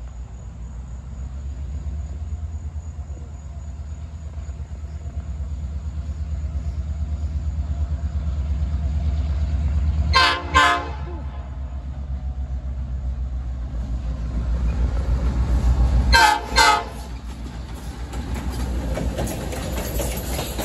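Diesel locomotive approaching, its engine running with a low rumble that grows louder as it nears. The air horn sounds two short blasts about halfway through, and two more about six seconds later. Near the end the passenger car rolls past.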